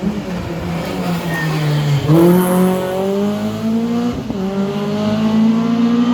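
Rally car engine off the throttle with its pitch sagging, then accelerating hard with the pitch climbing through the gears. There is one upshift about four seconds in and another near the end.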